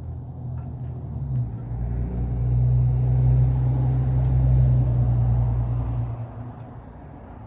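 Small engine of an old Murray stick edger running steadily, getting louder and heavier about a second and a half in, then dropping back to a lighter idle about six seconds in.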